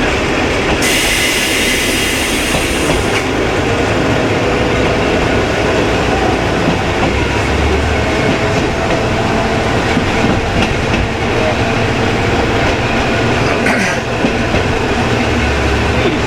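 KiHa 20 diesel railcar under way, heard from on board: a steady running drone with wheels clicking over rail joints. A high hiss lasts about two seconds near the start.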